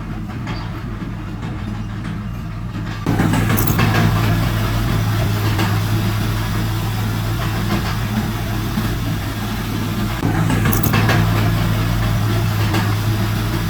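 Heavy earthmoving machinery's diesel engine running steadily, with a strong low hum; it jumps louder about three seconds in and stays there.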